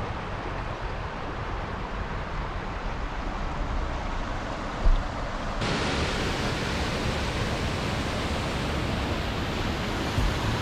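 Steady rush of running water. About halfway through it turns brighter and a little louder, just after a short low thump.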